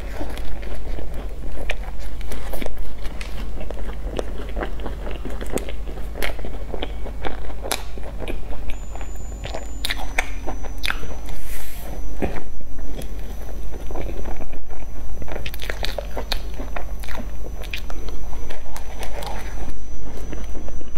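Close-miked biting and chewing of cream-filled pastries with a crisp crumb topping, the crust crunching and crackling in quick, irregular clicks.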